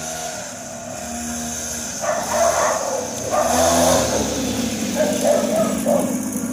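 Small mini motocross bike engine running, its revs rising and falling, growing louder about two seconds in.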